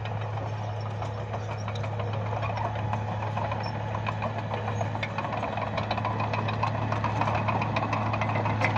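Bulldozer's diesel engine running steadily with a deep drone, growing gradually louder, with scattered short clicks and clanks over it.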